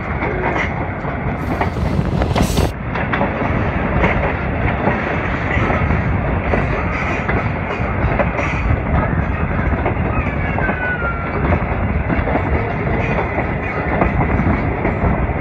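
Passenger train running at speed, heard through an open carriage window: a steady rumble and rush of wheels on the track, with scattered clicks.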